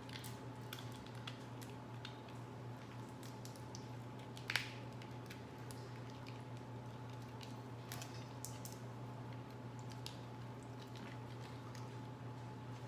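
Small clicks, crackles and squishes of crawfish and seafood shells being cracked and peeled and food being chewed, with one sharper crack about four and a half seconds in, over a steady low hum.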